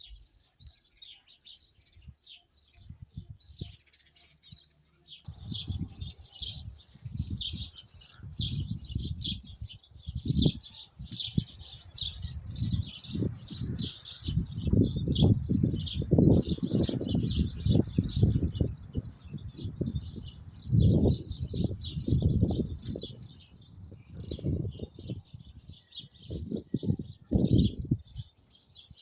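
Many small birds chirping and twittering without a break. From about five seconds in, wind gusts against the microphone in low, uneven surges that rise and fall.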